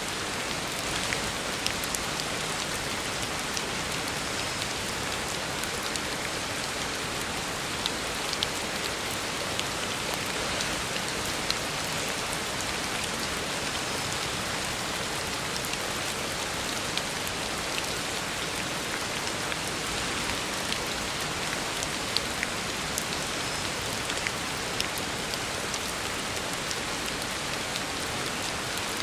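Heavy rain falling steadily on a road, an even hiss with many individual drops tapping sharply through it.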